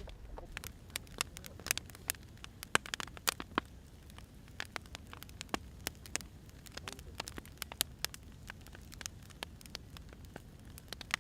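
Wood fire crackling, with irregular sharp pops and snaps from burning firewood over a low steady rumble.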